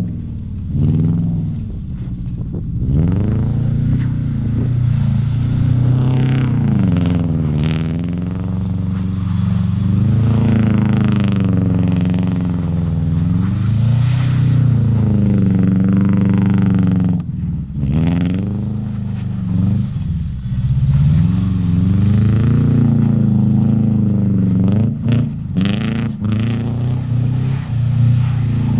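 Subaru flat-four boxer engine and exhaust, revved up and down over and over as the car drifts in snow, its pitch rising and falling every couple of seconds with brief drops off the throttle.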